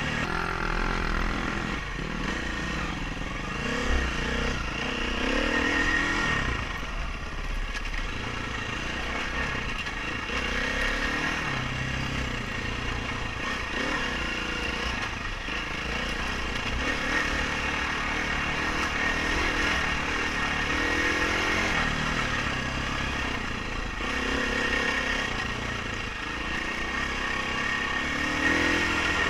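Dirt bike engine being ridden hard, its revs repeatedly climbing and dropping through the gears, with a sharp knock about four seconds in.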